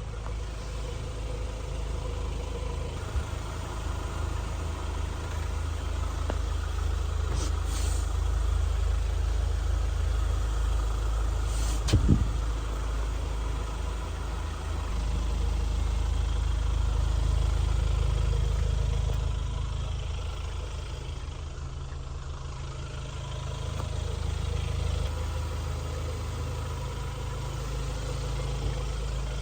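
Hyundai Palisade's 2.2-litre turbo-diesel engine idling with a steady low rumble that swells and eases a little. A short sharp knock is heard about twelve seconds in, with a fainter click a few seconds before it.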